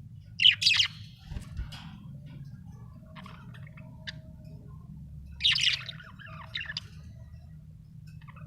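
Budgerigar chirping: two loud bursts of quick, high chirps, about half a second in and about five and a half seconds in, with a few softer chirps between. A low steady hum runs underneath.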